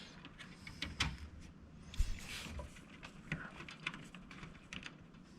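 Computer parts being handled and fitted into a PC case while a graphics card is installed: scattered light clicks and taps, with a sharper knock about two seconds in and a short rustle after it.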